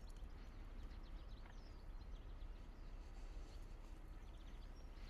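Faint chirps and short whistled calls of small songbirds, scattered throughout, over a steady low background rumble.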